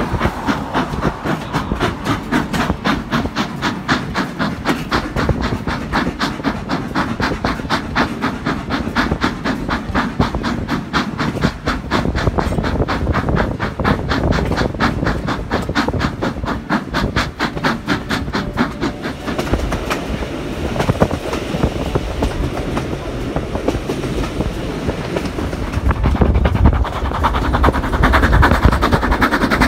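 Steam-hauled passenger train running, heard from one of its carriages: a fast, even rhythmic beat that fades about two-thirds of the way through into a steady rumble, which grows louder near the end.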